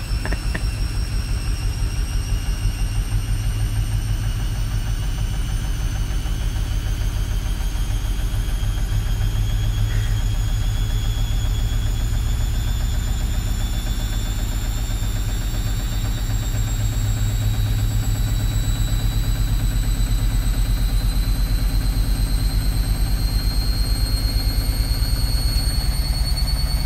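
Bauknecht front-loading washing machine spinning up: the motor whine climbs slowly and steadily in pitch over a rhythmic low rumble from the turning drum.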